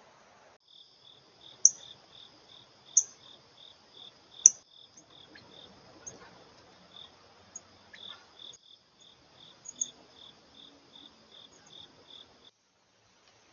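Insects chirping, crickets or katydids: a steady high trill with a pulsed chirp beneath it, about two to three a second. A few loud, short, sharp chips stand out in the first half. All of it cuts off suddenly near the end.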